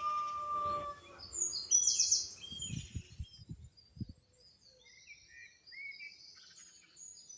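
Dawn chorus of small birds chirping, loudest about two seconds in and fainter later. A rooster's crow trails off in the first second. A few soft low thumps come in the middle.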